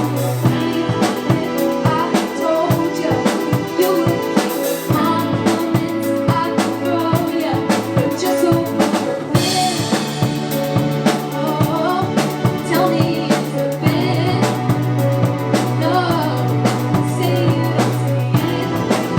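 Music: a pop song played on drum kit with steady bass notes, a singer's voice carrying the melody over it.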